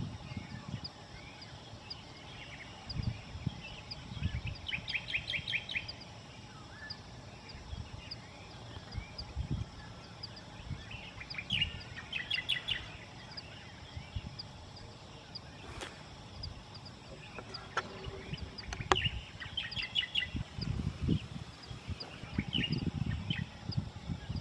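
Wild birds singing: several short, fast trills of rapidly repeated notes, with other chirps in between. Gusts of wind rumble on the microphone now and then, most strongly near the end.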